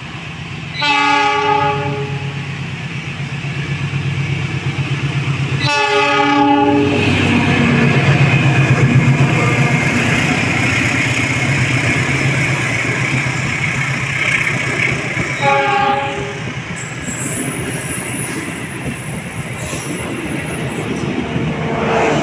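A passing train sounding its horn three times: two blasts of about a second each, early on and about six seconds in, and a shorter one near the middle, over the steady rumble and clatter of the wheels on the rails.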